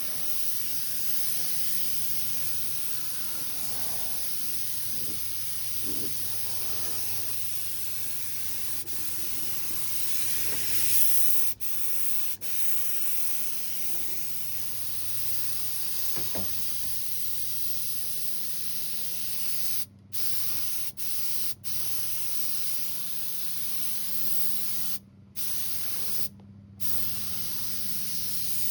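Compressed-air paint spray gun hissing steadily as it sprays paint, cutting out briefly several times in the second half.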